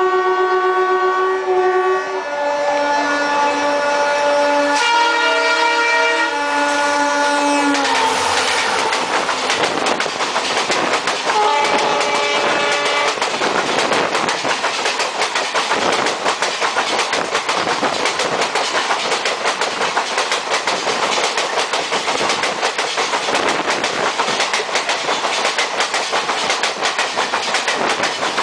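Diesel locomotive horn sounding long multi-tone blasts, its chord shifting, for about the first eight seconds. Then an express train passes close by, its wheels clattering over rail joints in a steady rhythm, with a shorter horn blast about twelve seconds in.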